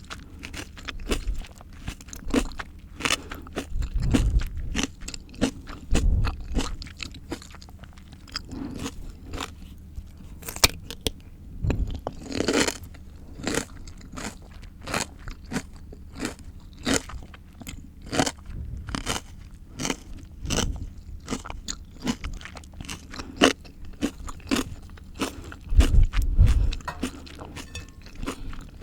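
A person biting and chewing crunchy raw fruit and vegetables: many sharp crunches one after another, with a few heavier low thumps.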